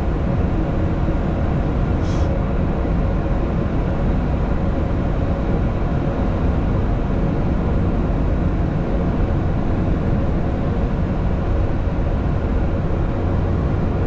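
Steady low rumble inside a Boeing 737 MAX 8 cockpit as the airliner rolls out on the runway after landing, its CFM LEAP-1B engines back at idle. A brief hiss comes about two seconds in.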